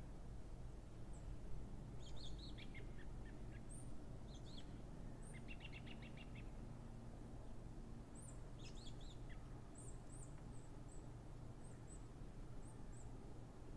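Small birds chirping in the background over a low steady hum: short high chirps scattered throughout, a quick rapid trill about five to six seconds in, and a burst of calls around eight to nine seconds.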